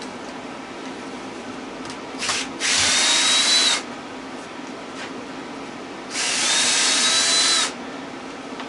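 A handheld power drill/driver with a socket, run in two bursts of about a second and a second and a half after a brief blip, spinning out bolts on a bracket of a scrap electric motor.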